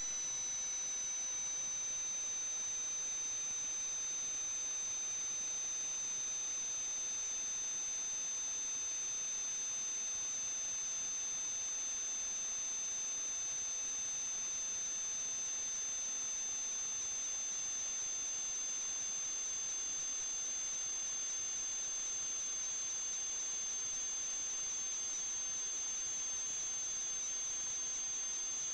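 A steady high-pitched electronic whine over constant hiss, with two fainter, lower tones slowly drifting in pitch beneath it.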